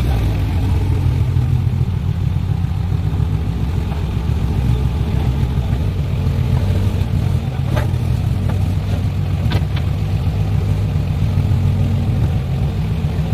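Heavy diesel engine of an excavator or lorry running steadily with a low rumble, with a few short knocks about eight to nine and a half seconds in.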